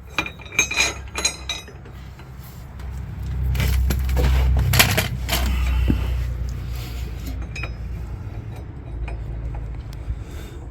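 Metal parts and tools clinking several times in quick succession, then a low rumble that swells about three seconds in and gradually fades.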